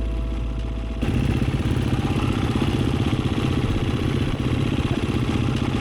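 A last second of guitar music that cuts off, then an enduro motorcycle engine running steadily with a rapid, even pulse.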